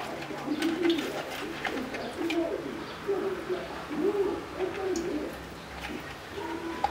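A bird cooing over and over in low, wavering calls, with light clicks and rustles from hands handling floured fish.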